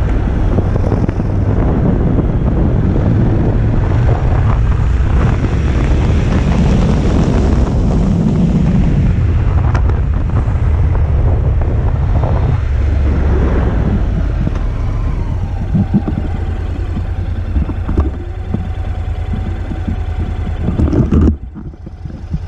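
Motorcycle riding noise: wind buffeting the microphone over the engine and tyre noise. The noise drops suddenly shortly before the end.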